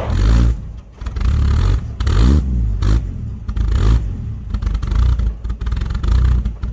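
Dodge D100 pickup's slant-six engine revving up and down in repeated surges, about one a second, with a brief dip about a second in, as the truck is worked to get free of ice around its tires.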